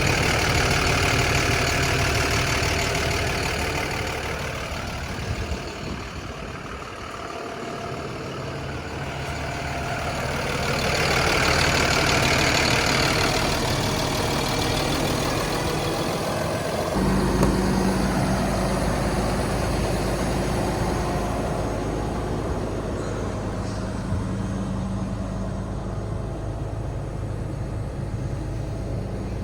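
Isuzu FTR box truck's 6.7-litre Cummins turbo diesel engine running steadily. A little over halfway through, its low note changes abruptly and a deeper, steadier tone takes over.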